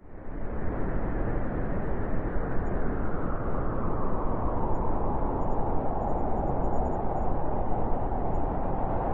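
Blizzard wind howling: a steady, dense rush of storm wind that cuts in suddenly, with a howl in its middle pitch growing stronger after a few seconds.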